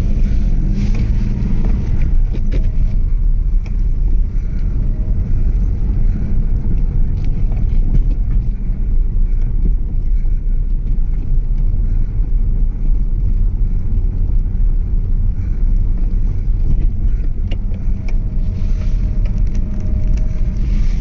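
Subaru SVX's 3.3-litre flat-six engine running with a steady low drone and a few light clicks.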